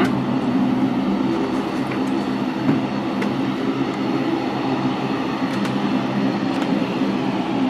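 Aircraft engines running steadily: a low hum with a thin, steady high whine over it.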